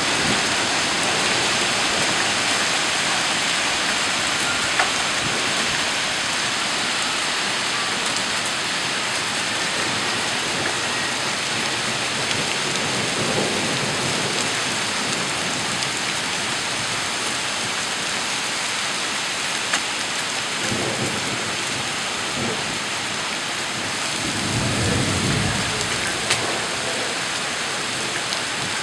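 Heavy summer rain pouring in a steady hiss, with a few low rumbles of thunder swelling under it, the loudest about three-quarters of the way through. A few sharp ticks of drops striking close by.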